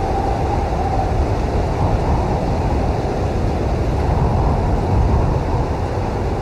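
Blizzard wind blowing hard and steadily, a deep rumbling rush with a faint whistle in the first second and a gust swelling about five seconds in.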